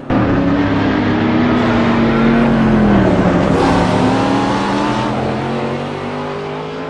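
High-performance car engines running hard, with a falling engine note as a car passes about three seconds in and rising notes after it. The sound starts and stops abruptly.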